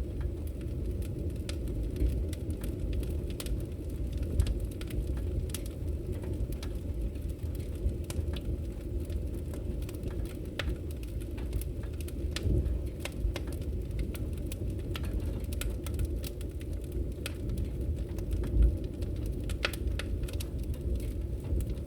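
Wood fire burning steadily, a low rumble with frequent small crackles and pops as the logs burn.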